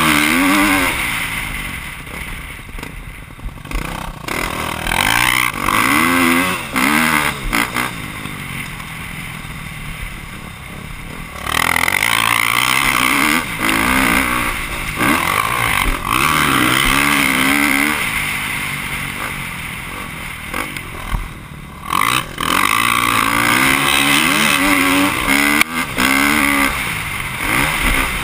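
Motocross bike engine heard from an onboard camera, revving up and dropping back again and again as the bike is ridden around a dirt track, with loud rushing noise on the fastest stretches.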